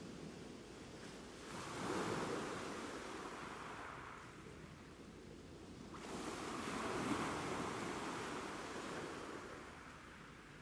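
Ocean waves breaking on a shore, two swells of surf about four and a half seconds apart, each rising quickly and washing back out slowly.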